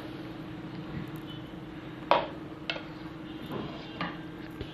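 A few light clinks and taps of utensils against cookware, spaced out over a steady low hum.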